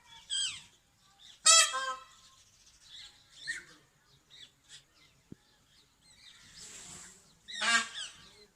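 Indian peafowl (peacock) calling: two loud, harsh honking calls about one and a half seconds in and again near the end, with fainter, shorter calls in between.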